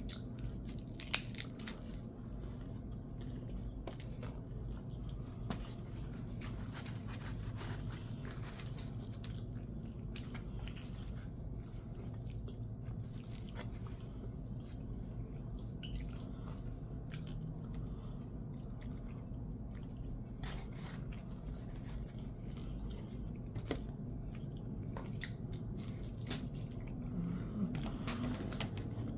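A person chewing and biting food, with scattered short crunchy clicks over a steady low hum.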